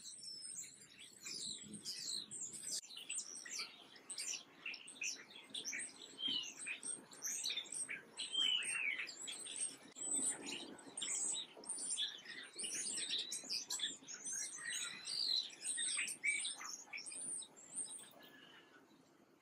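Small songbirds chirping, a busy chorus of many short high calls, some sweeping downward in pitch. It thins out and fades near the end.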